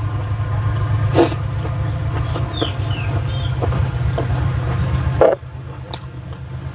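A person chewing and eating close to the microphone, with sharp wet mouth clicks: a strong one about a second in and another a little past five seconds. Under it runs a steady low hum that drops away after the second click, and a few faint high chirps come and go.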